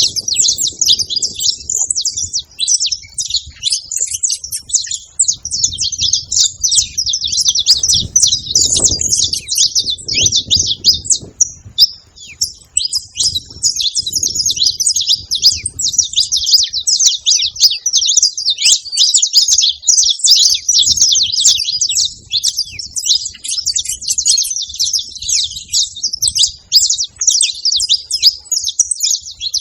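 Saffron finches singing: a dense, continuous stream of rapid high chirps and trills, with a brief lull about twelve seconds in.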